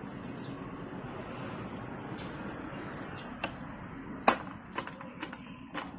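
Five sharp knocks in the second half, the loudest about four seconds in, over a steady background noise, with small birds chirping briefly near the start and again about three seconds in.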